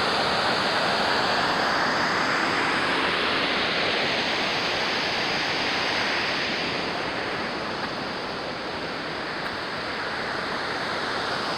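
Small waterfall rushing steadily, an even roar of falling water that eases slightly about eight seconds in.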